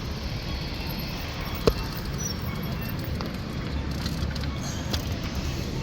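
Steady outdoor street noise heard while cycling, with rumble low down, and one sharp click about a second and a half in.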